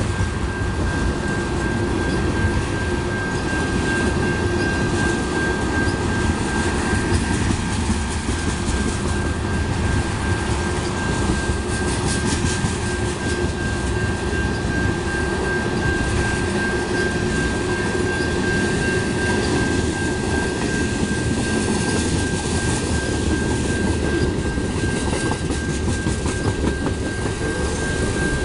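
Freight train of tank cars and covered hopper cars rolling past at a grade crossing: a continuous, even rumble of wheels on rail. A steady high tone runs unbroken over it.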